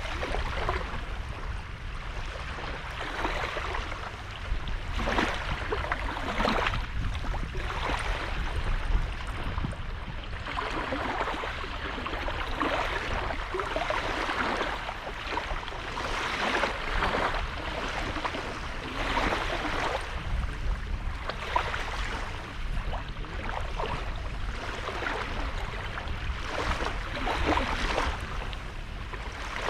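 Small sea waves lapping and splashing on a sandy shore, in irregular washes of splashes with a steady low rumble underneath.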